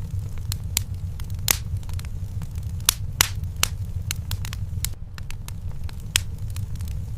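Wood fire burning in a fireplace: irregular crackles and sharp pops over a steady low rumble of the flames, with a few louder pops scattered through.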